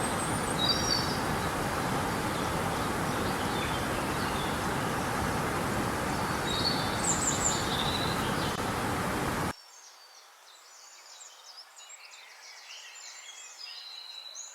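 Steady rush of flowing river water with small birds chirping over it. About nine and a half seconds in, the water sound cuts off suddenly, leaving only faint birdsong.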